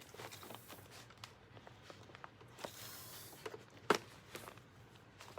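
Faint handling noises of someone working on parts: scattered light clicks and rustles, with one sharper knock about four seconds in.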